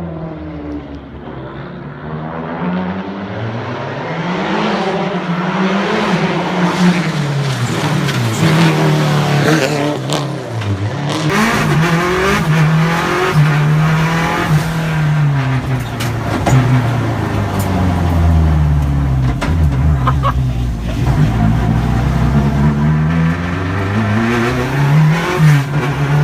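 Subaru Impreza WRX hillclimb car's flat-four boxer engine revving up and falling back over and over, as the car is driven hard in donuts and powerslides. Tyre noise runs under it, along with a few sharp cracks.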